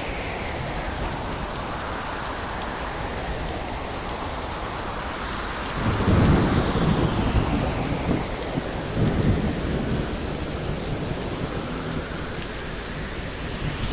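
Steady rain falling through a thunderstorm, with a loud roll of thunder breaking about six seconds in, swelling again a few seconds later and then dying away.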